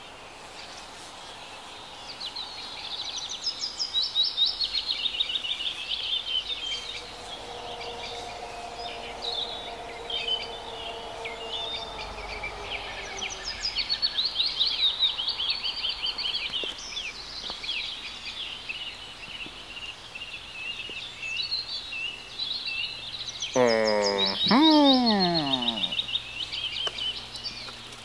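Small birds chirping and singing throughout. Near the end, a loud drawn-out sound falls in pitch twice in quick succession.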